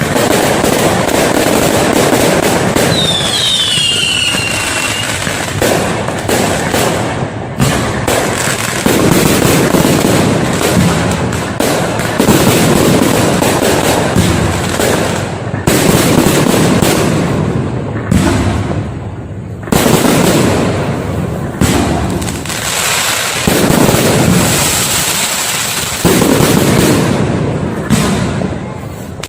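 Fireworks display: dense, continuous bangs and crackling of aerial fireworks going off in rapid succession, with a short falling whistle about three seconds in.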